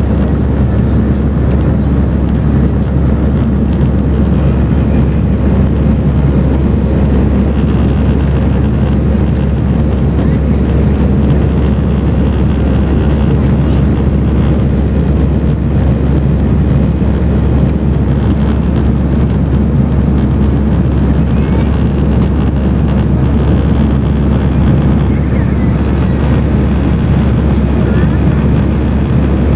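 Steady, loud roar inside an Airbus A319 cabin: its engines and the rushing air, an unchanging low rumble.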